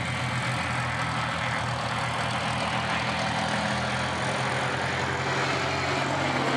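TL Sirius light aircraft's piston engine running steadily, a constant engine drone with no change in pitch.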